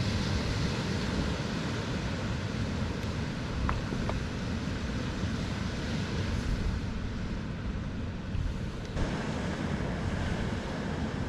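Wind buffeting the microphone over the steady rush of surf breaking on a beach.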